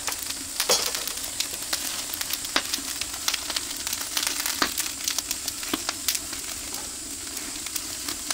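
Meat sizzling on a grill over an oak-wood fire: a steady hiss with frequent sharp crackles and pops.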